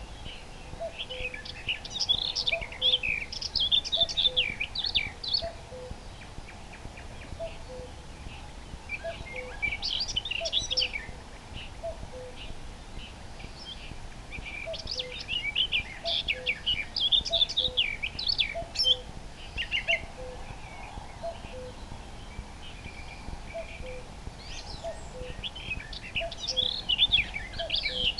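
A common cuckoo calling its two-note falling "cuck-oo" over and over at an even pace, while a common nightingale sings rich, varied phrases of rapid high notes in separate bursts several seconds apart.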